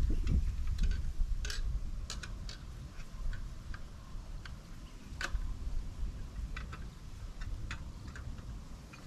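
Scattered, irregular light clicks and ticks over a low rumble that eases off after the first couple of seconds.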